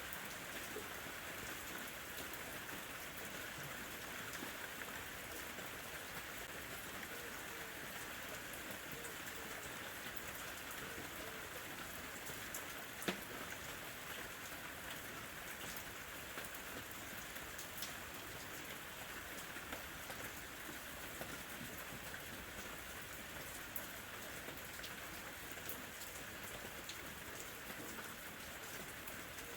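Steady summer rain falling, an even hiss with scattered drop taps, and one sharper, louder tap about halfway through.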